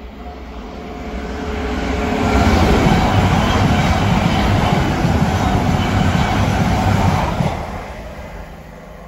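Avanti West Coast express train passing at speed on the main line, a rising rush of wheels on rails building to a loud steady rumble with a brief falling tone as the front goes by. The rumble cuts off sharply near the end as the last car passes, then fades away.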